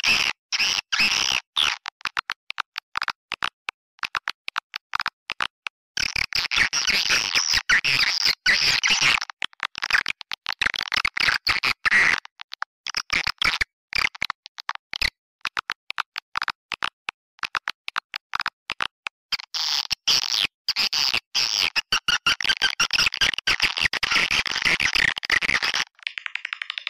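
Swiftlet call recording used as a lure for a swiftlet house: rapid, dense chirping and twittering of swiftlets. It comes in long bursts with sparser clicks and chirps between them.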